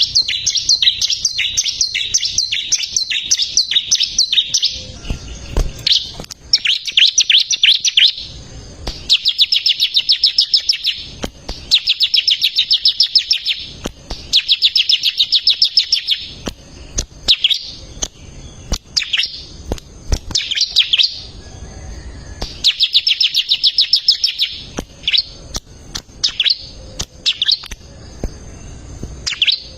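Bar-winged prinia (ciblek) singing continuously: rapid, high trilled phrases of one to two seconds each, repeated again and again with brief pauses and single chirps between them.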